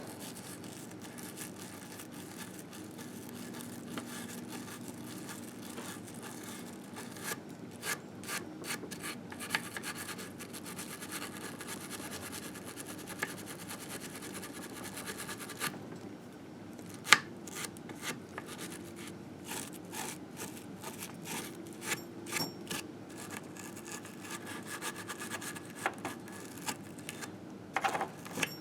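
Steady scrubbing and scraping of grime off a Harley engine case, with irregular clicks and taps, loudest a little past halfway, and a brief pause about two-thirds of the way through.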